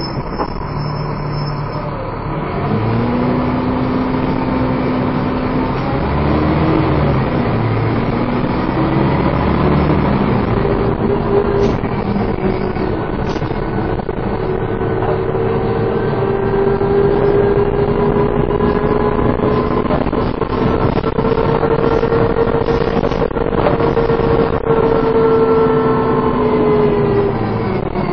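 Dennis Trident 2 double-decker bus driven hard, its drivetrain giving a 'hoover' whine over the engine noise. The pitch rises, drops at a gear change a few seconds in, then climbs slowly for a long stretch before falling near the end as the bus eases off.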